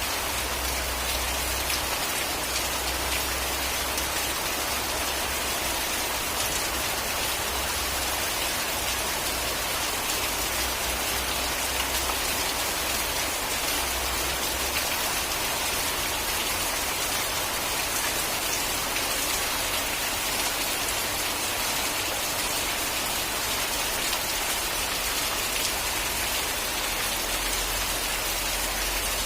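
Steady rain falling on a surface: an even, unbroken hiss of many drops.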